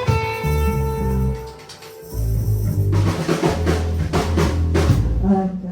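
Live band playing, with held chords and low bass notes, a brief drop in level about two seconds in, then drum kit hits coming in about three seconds in.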